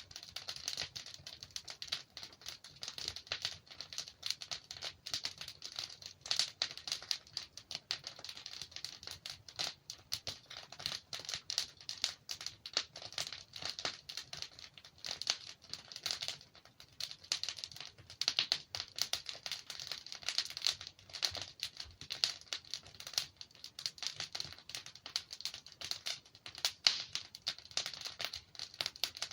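Wood fire in a fireplace crackling steadily, with dense irregular snaps and small pops from the burning logs.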